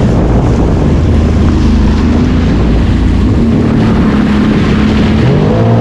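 Sea-Doo personal watercraft engine running underway, with wind buffeting the microphone. The engine's pitch rises and falls briefly near the end.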